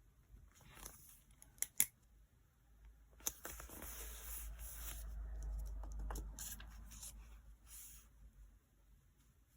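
Scissors cutting paper for diary decorating: two sharp snips near the start, then a longer stretch of cutting lasting about three seconds, then a few lighter snips.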